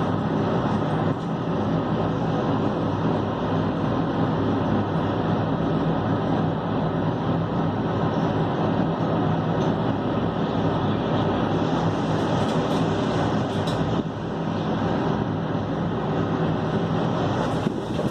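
Wind rushing over the microphone and an air conditioner unit being shaken by the wind, with a steady low hum throughout and a few light rattles in the last third.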